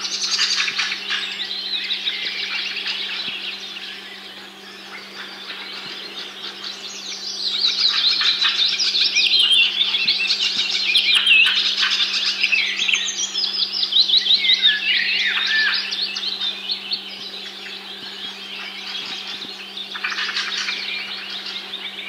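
Several birds chirping and twittering in quick, repeated trills, busiest and loudest in the middle, over a steady low hum.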